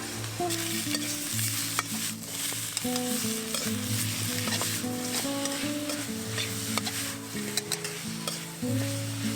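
Food sizzling as it fries in oil in a pan: a steady hiss with many scattered crackles and pops. Music with shifting sustained notes plays underneath.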